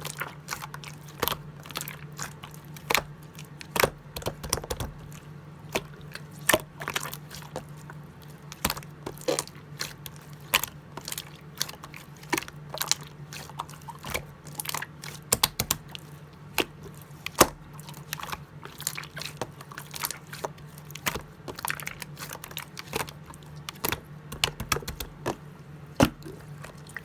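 Clear slime being handled, giving irregular sharp clicks and pops, several a second, over a faint steady hum.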